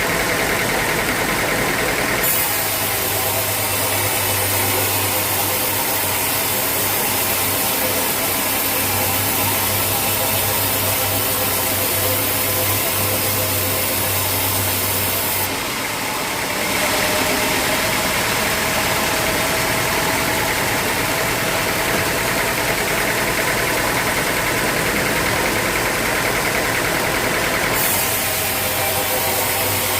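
Sawmill machinery running steadily, with a low hum that changes abruptly a few times.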